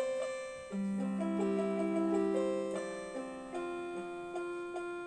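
Angelet XTS 690 electronic keyboard playing its bass voice: a slow line of single notes, each held and overlapping the next.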